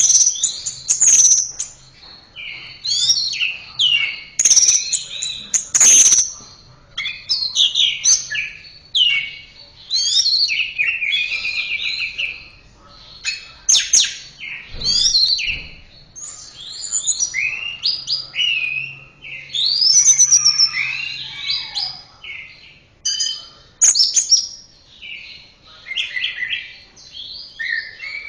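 Orange-headed thrush (anis merah) singing a continuous, varied song of quick high whistles and chattering phrases, with a few sharp clicks among them.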